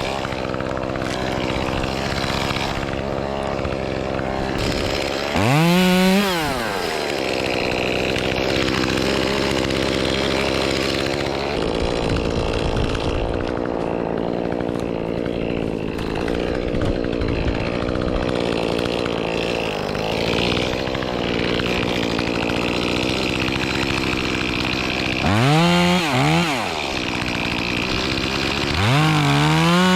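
Echo CS-2511T two-stroke top-handle chainsaw running at a steady low speed, blipped up to full revs and straight back down three times: about six seconds in, near the end, and again at the very end.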